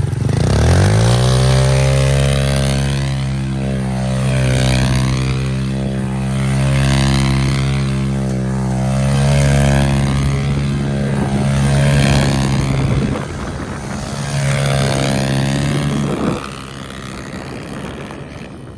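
Small pit bike engine catching and rising quickly in pitch, then running at a steady speed until it cuts off suddenly about sixteen seconds in.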